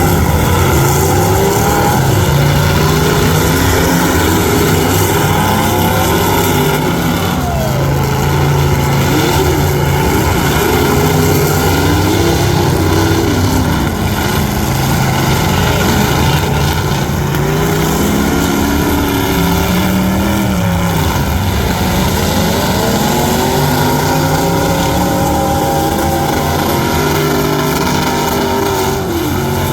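Loud truck engines revving, their pitch climbing and falling again and again, with several engine notes overlapping over a steady rumble.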